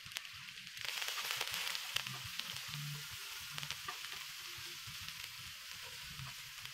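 Sliced red onions sizzling in oil on a round griddle pan, the sizzle growing louder about a second in. Short clicks and scrapes of wooden chopsticks stirring the onions against the pan.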